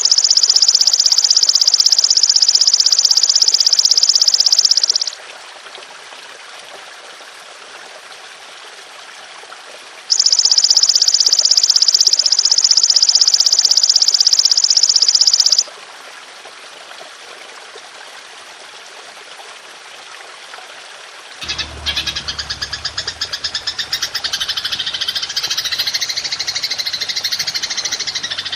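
Belalang emas insect (golden grasshopper) calling in two long, loud, high buzzing trills of about five seconds each, over a soft steady trickle of water. From about two-thirds of the way in, a different rapidly pulsing rattling call takes over.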